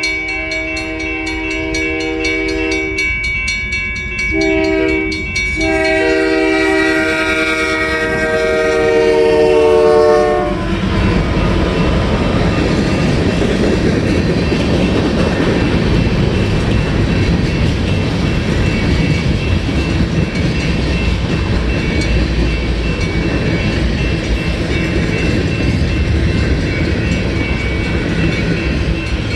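Union Pacific freight locomotive's multi-note air horn sounding a crossing pattern: a long blast, a short one, then a final long blast whose pitch drops as the locomotive passes. Then the locomotives and freight cars roll past, a steady rush of engine and wheel-on-rail noise with clickety-clack.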